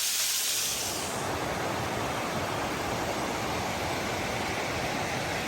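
Creek water rushing, a steady, fairly loud rush; a high hiss in about the first second gives way to a fuller, deeper rush.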